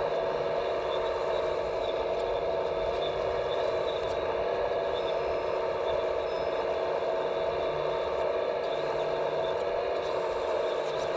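Radio-controlled scale construction machinery running: a steady electric motor and pump whine that holds one pitch without let-up.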